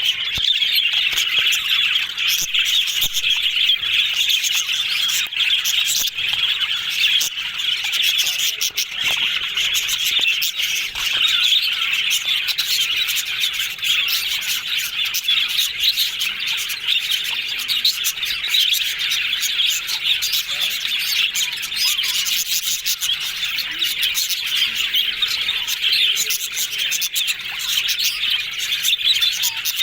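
Budgerigars chattering and warbling continuously, a dense run of chirps, whistles and clicks with no pauses.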